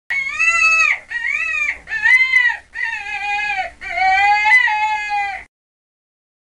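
Five high-pitched, drawn-out cries in a row, each about a second long with a rise and fall in pitch and short breaks between them.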